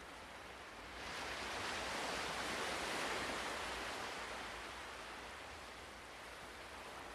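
Ocean waves washing in. A surge of surf rises about a second in, peaks, and ebbs away over the next few seconds.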